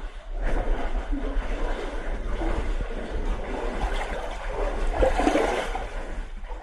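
Water splashing and sloshing continuously, with a louder stretch about five seconds in.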